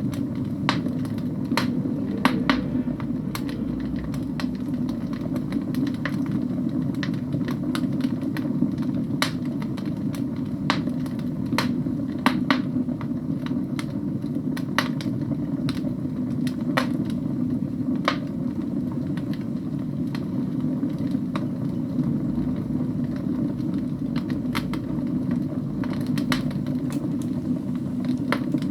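Wood fire burning in a fireplace: logs crackling and popping with irregular sharp snaps, over a steady low rumble of the flames.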